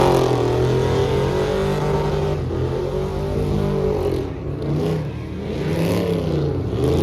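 Truck engine revving up and down repeatedly, its pitch rising and falling several times.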